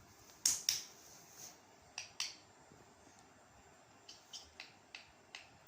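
Short sharp clicks and taps: two louder pairs in the first couple of seconds, then a run of about five fainter clicks near the end.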